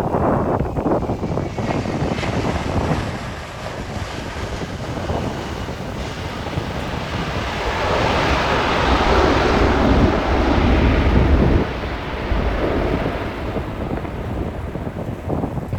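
Jet airliner's engines passing near the airport, a rumble and hiss that swells to its loudest a little past halfway and then falls away, with wind buffeting the microphone.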